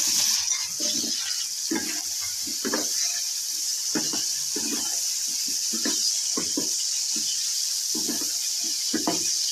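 Sliced button mushrooms sizzling in hot oil in a kadai: a steady frying hiss broken by irregular low pops and knocks about once or twice a second.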